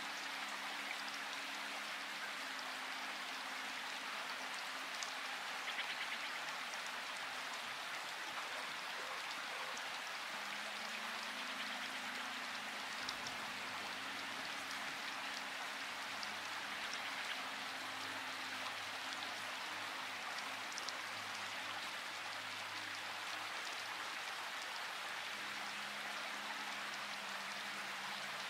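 Steady rain falling as an even hiss, with individual drops ticking sharply now and then.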